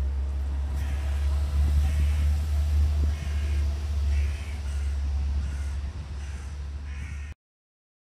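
A bird calling repeatedly with short harsh calls, about one a second, over a steady low rumble. All sound cuts off suddenly near the end.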